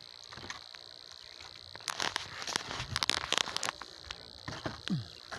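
Steady high insect chirring, typical of crickets, under a cluster of sharp clicks and knocks about two to three and a half seconds in, with a short falling sound like a grunt near the end.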